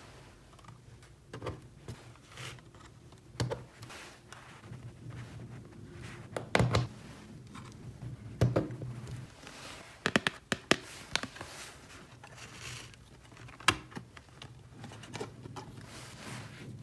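Small plastic toy pieces being handled, with scattered sharp clicks and knocks, a quick cluster of them about ten seconds in.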